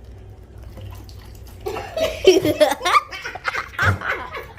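People bursting into loud laughter and shrieks about two seconds in, over a low steady hum.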